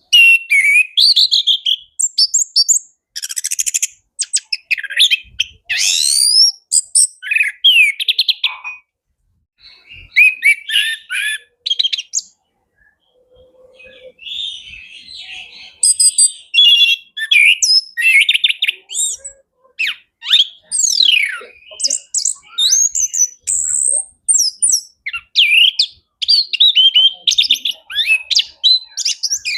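Orange-headed thrush singing a fast, varied song of whistled phrases, rapid sweeps and trills, in bursts with two short pauses around the middle.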